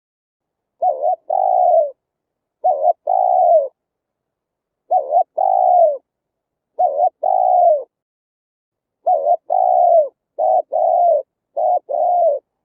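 Spotted dove cooing: repeated two-note phrases, each a short coo followed by a longer, falling coo. The phrases come about every two seconds, then faster toward the end.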